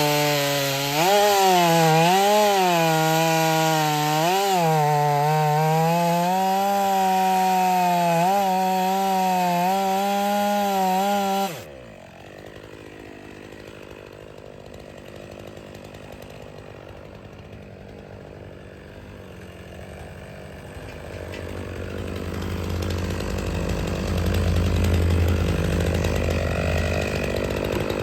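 Stihl 500i two-stroke chainsaw running at high revs through firewood, its pitch dipping and recovering as the chain bogs in the cut. It cuts off abruptly about twelve seconds in, and a lower, quieter rumble builds near the end.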